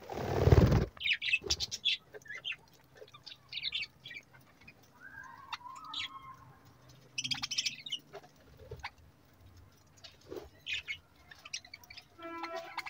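Budgerigars chirping and twittering in many short, high calls. A loud rush of noise in the first second is the loudest sound.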